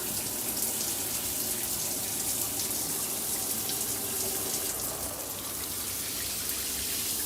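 Water spraying steadily from a running shower head and splattering below, an even hiss.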